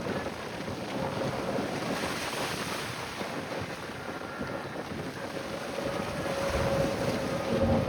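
Strong wind buffeting the microphone over open water, with a faint steady hum underneath; a louder gust near the end.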